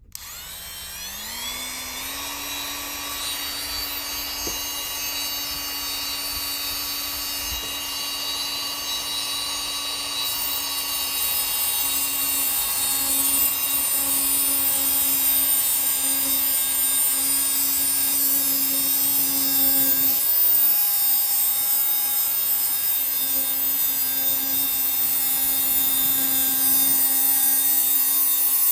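A small high-speed power tool spins up, its whine rising over the first two seconds, then runs steadily and gets gradually louder as it cuts. It is trimming about two more threads off a Heli-Coil thread insert to shorten it.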